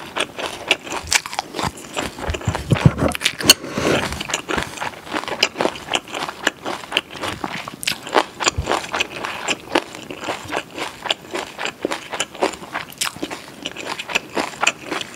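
Close-miked chewing of a boiled-cabbage wrap filled with stir-fried pork and kimchi: a dense, irregular run of small wet crunches and mouth clicks, several a second.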